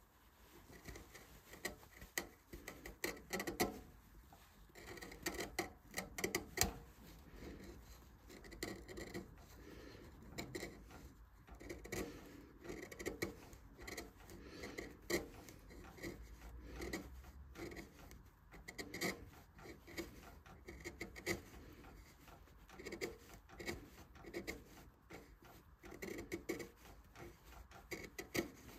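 A hand carving tool cutting and scraping into a wooden vase in many short, irregular strokes, with occasional sharper clicks.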